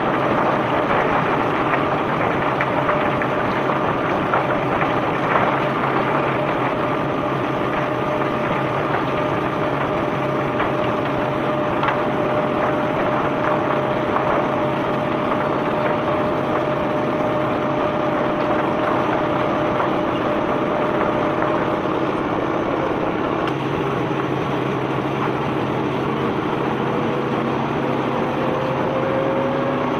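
Diesel engine of the unloading machinery running steadily over a dense rushing noise of limestone being discharged; a whine rises in pitch near the end.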